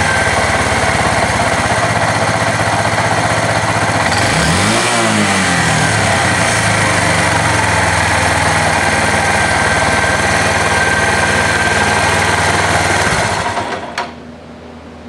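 Suzuki GZ250's single-cylinder four-stroke engine idling, revved once briefly about five seconds in, then shut off near the end with a sharp click, leaving a low hum.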